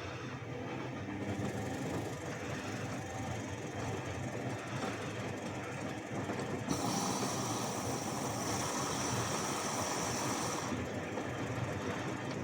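A Bauknecht WAS 1400 washing machine running, with a steady rumble. About seven seconds in, a hiss with a high steady whine cuts in and stops abruptly about four seconds later.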